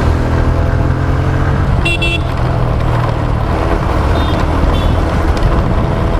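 Steady motorcycle engine and road rumble heard while riding. A vehicle horn toots briefly about two seconds in, and two fainter short toots follow between four and five seconds.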